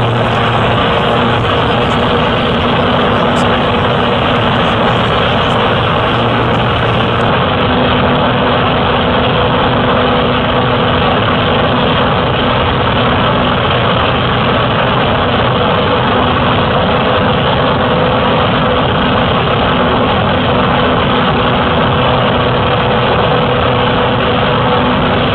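Cessna light aircraft's piston engine and propeller running at a steady speed, heard up close from a camera mounted on the plane: a loud, unchanging drone with a steady hum through it.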